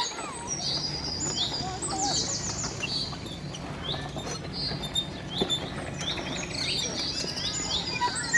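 Small birds chirping and trilling repeatedly in quick, high notes, over a low steady hum.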